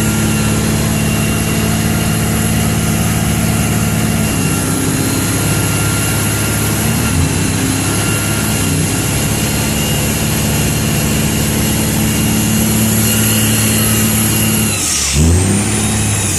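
Big truck engine held at high, steady revs during a burnout, with a high whine riding on top. About fifteen seconds in the revs drop off sharply.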